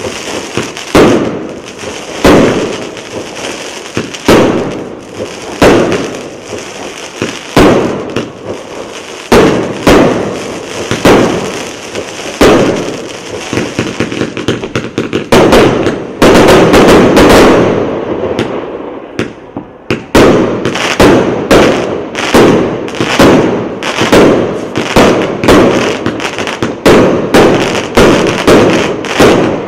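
Consumer fireworks cake of 0.8- and 1.0-inch tubes firing shot after shot, each launch and burst sharp with a crackling tail. The shots come about every second and a half at first, give way to a few seconds of dense crackling about halfway through, then quicken to about two a second toward the end.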